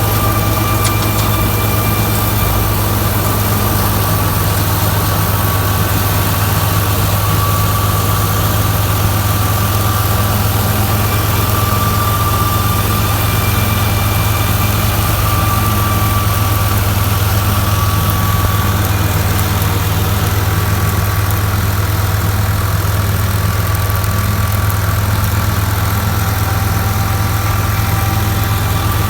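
Tractor diesel engine running at a steady speed: an even low drone with a thin steady whine above it and no change in pitch or load.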